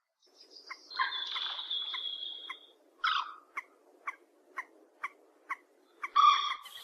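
Call of the cuốc biển bird: a long held high note, then a run of short, evenly spaced notes about two a second, ending in a louder burst.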